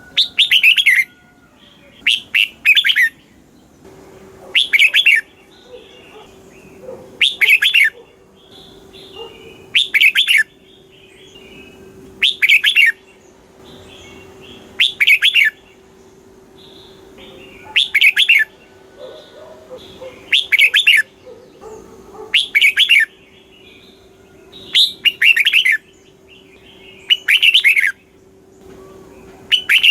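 Red-whiskered bulbul singing: a short, loud, warbled phrase repeated about every two and a half seconds, with fainter chirps in between.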